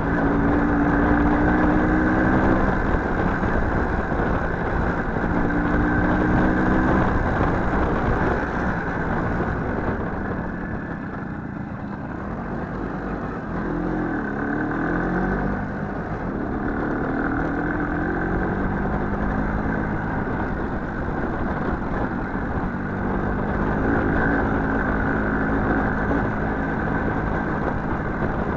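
Small motorcycle engine running under way, its pitch rising and falling repeatedly as the throttle opens and closes, over a steady rumble of riding noise.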